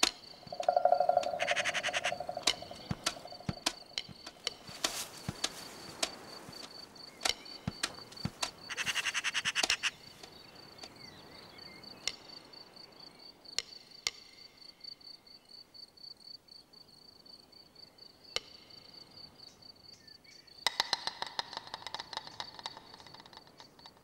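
Several bouts of rapid, rattling bird calls, the longest about a second long and the last two seconds long near the end, over a steady high insect trill, likely crickets.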